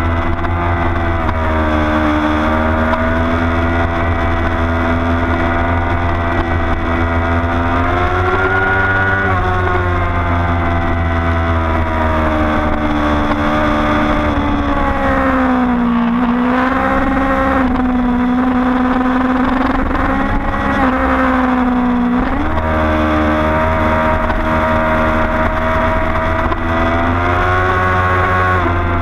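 Motorcycle engine at speed under hard riding, its pitch climbing and falling several times as the throttle opens and closes through the corners, with heavy wind rumble on the microphone.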